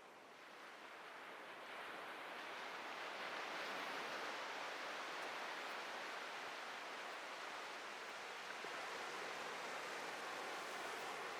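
Ocean surf: a breaking wave's rush of water swells up over the first few seconds, then holds as a steady hissing wash.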